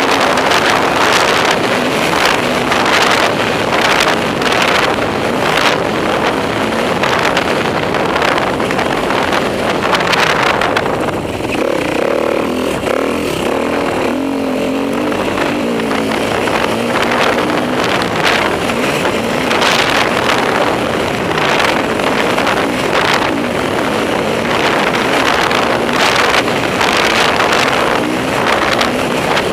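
Enduro motorcycle engine running hard around a motocross track, the throttle opening and closing over and over, with wind buffeting the microphone. For a few seconds near the middle the engine eases off to lower revs before pulling hard again.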